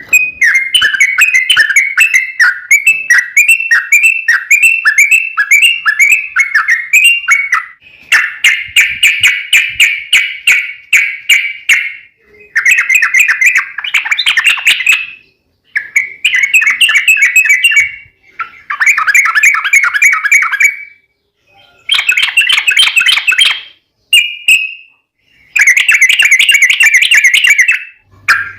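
Yellow-vented bulbul (trucukan) singing long runs of fast, bubbling, repeated notes. The song comes in bouts of two to four seconds with short pauses between them.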